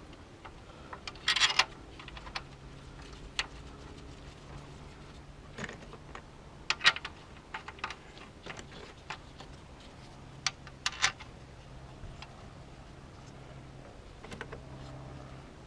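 Scattered light clicks and clacks of engine parts and hand tools being handled and fitted, a few louder clusters among them, over a steady low hum.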